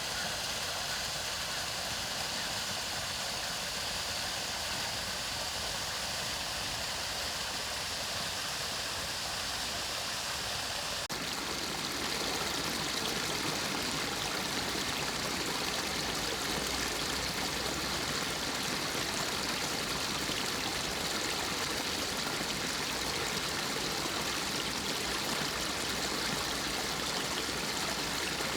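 Mountain stream water flowing steadily over rocks. About eleven seconds in the sound changes abruptly, becoming fuller, deeper and slightly louder as a stronger rush of water takes over.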